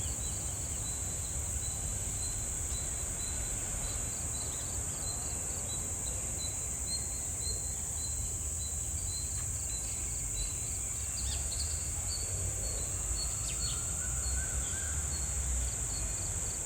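Crickets chirping in an even, regular pulse over a constant high-pitched insect hum and a steady low rumble. A few faint, short bird calls come in during the second half.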